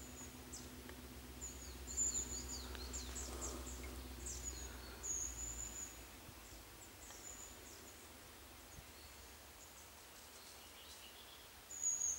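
Wild birds chirping, with high thin calls and quick falling notes, busiest in the first half and again near the end. Under them a faint low hum with a steady tone fades out about halfway.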